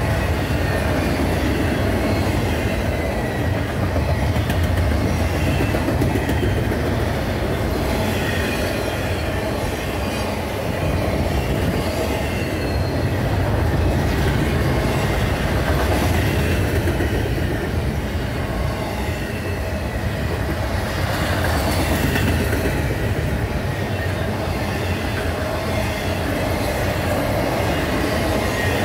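Double-stack intermodal well cars rolling past at speed: a steady, loud rumble of steel wheels on rail, with a faint high squeal from the wheels coming and going.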